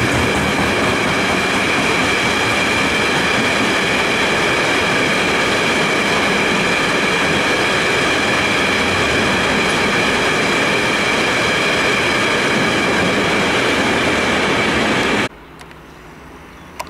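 Freight train of coal wagons rolling past at close range: steady loud noise of wheels on rails, with a steady high whine over it. It cuts off suddenly near the end, leaving much quieter background.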